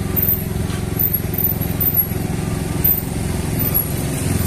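Motorcycle engines running steadily at low speed while riding, with road noise: a steady low drone that holds at one pitch.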